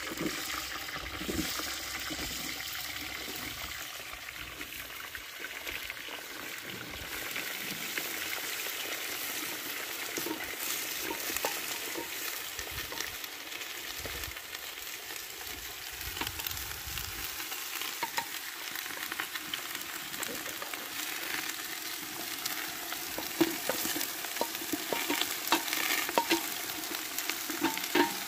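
Sliced zucchini sizzling as it fries in a large metal pot, stirred with a wooden spoon. Scattered clicks of the spoon and colander against the pot, more of them near the end.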